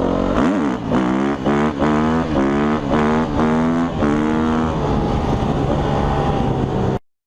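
Motorcycle engine accelerating hard through a quick run of upshifts: the pitch climbs and drops back about six or seven times, each climb a little longer than the last. It then holds a steady note and cuts off suddenly near the end.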